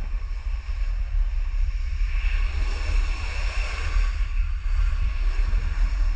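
Wind buffeting the microphone: a heavy, uneven low rumble with a faint hiss above it.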